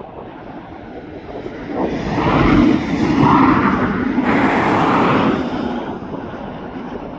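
Jet aircraft passing by: a rushing engine noise that swells about two seconds in, holds for a few seconds and then fades away.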